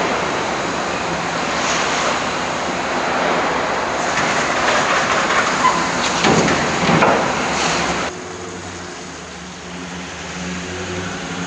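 Truck assembly plant floor noise: a steady rushing din of machinery with a few clanks. About eight seconds in it cuts abruptly to a quieter, steady hum.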